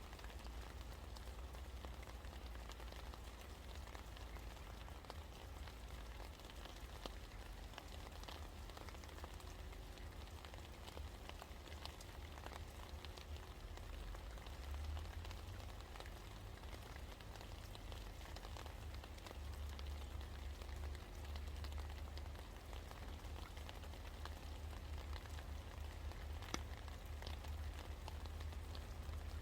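Steady rain falling, with scattered individual drops ticking sharply through the hiss and a low rumble underneath.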